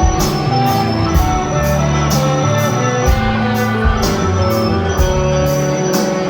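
Band music: sustained instrument notes over a steady drum beat, with hits about twice a second.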